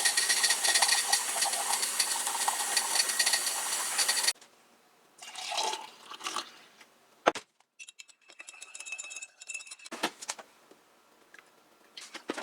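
Water running or pouring for about four seconds, cutting off suddenly, then a few scattered clicks and knocks.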